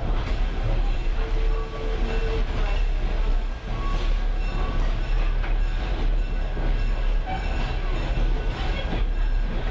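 Steady low rumble and rattle of a train car rolling along the track, heard from a caboose riding behind a diesel locomotive.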